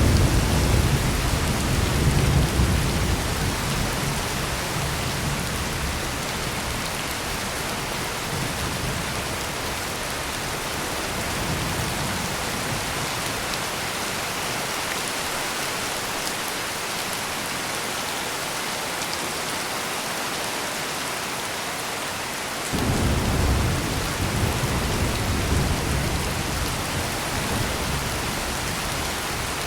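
Heavy rain pouring steadily, with low rolling thunder that fades away over the first few seconds and rumbles up again suddenly about three-quarters of the way through.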